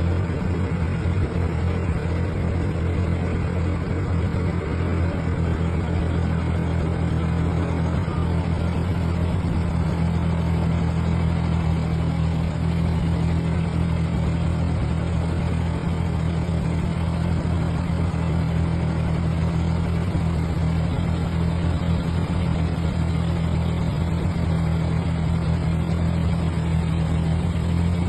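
Vintage tractor engine running steadily at an even speed, a constant low drone.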